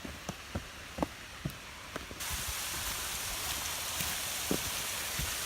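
Small woodland waterfall running, a steady rushing hiss of falling water that suddenly becomes louder and fuller about two seconds in. A few short light knocks sound over it in the first couple of seconds.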